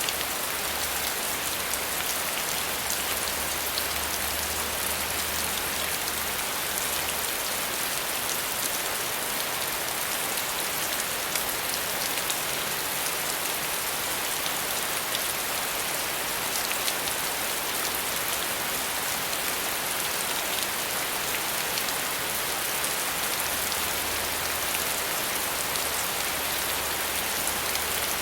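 Steady rain falling on a surface, a constant hiss with fine drop patter and no thunder.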